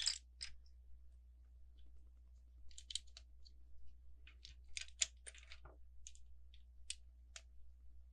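Plastic LEGO bricks clicking and rattling as pieces are handled and pressed together, a scatter of small sharp clicks with a few clusters.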